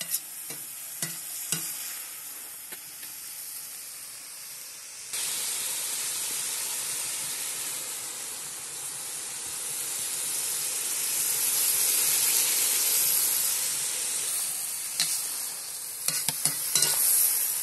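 Pork liver and onions sizzling in a hot cast-iron kazan, with the clicks and scrapes of a metal utensil stirring against the pot. About five seconds in the sizzle jumps suddenly louder and goes on as an even hiss. The stirring clicks come again near the end.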